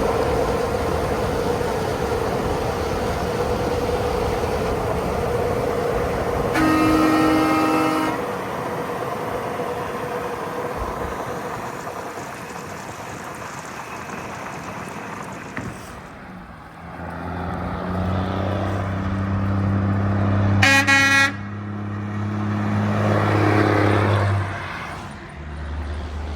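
Road traffic with two short vehicle-horn blasts, one about seven seconds in and a briefer, brighter one around twenty-one seconds. In the second half a heavy engine drones steadily, then drops away shortly before the end.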